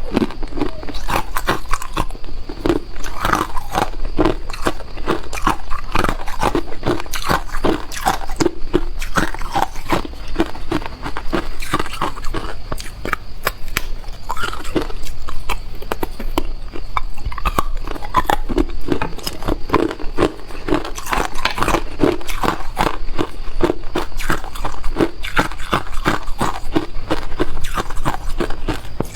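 A person biting and chewing ice close to the microphone: a continuous run of crisp, crackling crunches as the ice breaks between the teeth.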